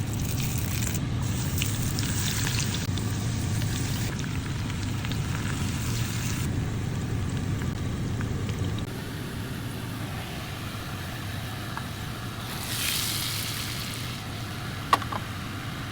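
Food sizzling in a hot pan over a steady low rumble, with light crackling in the first half. A louder hiss swells a little past the middle, and a single sharp click comes near the end.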